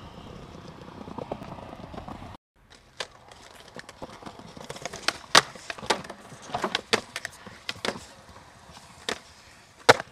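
Skateboard sounds: wheels rolling over pavement for a couple of seconds. Then, after a short break, a string of sharp clacks and knocks from the board, with the sharpest about halfway through and near the end.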